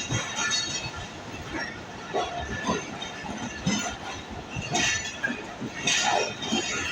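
Railway coaches rolling along the track, their wheels clacking irregularly over rail joints, with brief hissing and squealing surges near the end.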